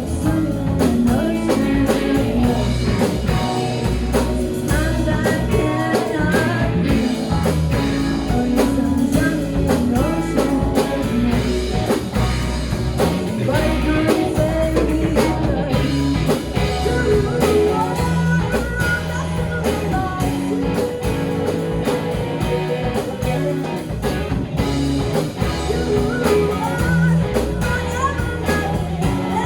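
Live rock band playing, with guitar over a drum kit.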